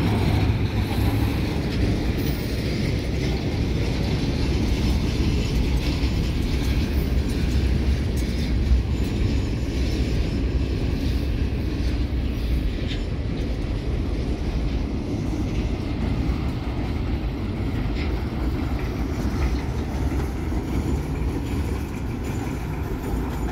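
Union Pacific welded-rail train rolling past: a steady rumble of steel wheels on the track with the rattle of the rail racks and cars and an occasional sharper clank.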